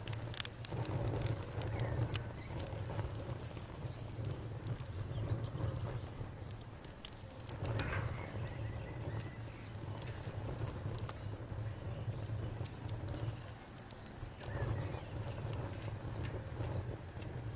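Wood fire crackling with scattered sharp pops, over a cricket's steady high chirring and occasional bird calls.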